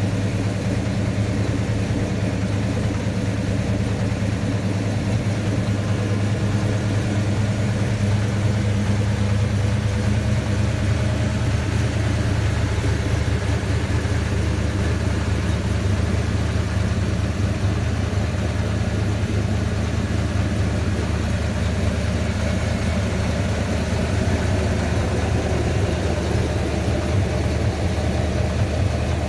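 1970 Pontiac GTO's 400 cubic-inch (6.6-litre) V8 idling steadily, low-pitched and even, with no revs.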